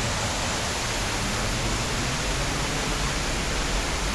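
Steady rushing roar of a waterfall, an even wash of water noise with no breaks.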